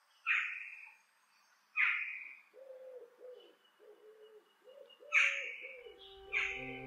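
Birds calling outdoors: four loud, short, sharp calls a second or more apart, with a run of low repeated notes between them. Organ music begins near the end.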